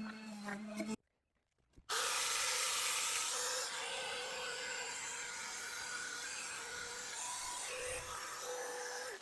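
Background music for about a second, a brief silent break, then a power tool with an abrasive disc sanding an aluminum truck wheel, running steadily with a wavering motor whine over the grinding.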